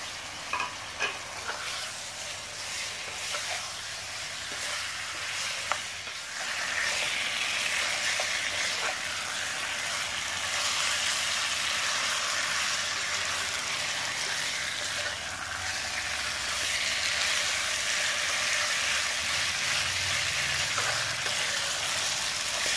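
Pork belly pieces sizzling in a nonstick wok as they are stirred and turned with a spatula. The sizzle grows louder about six seconds in, and there are a few light knocks in the first seconds.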